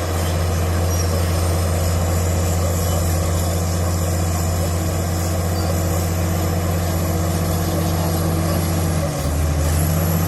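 Komatsu D65PX bulldozer's diesel engine running steadily, its note dipping briefly near the end and then picking back up.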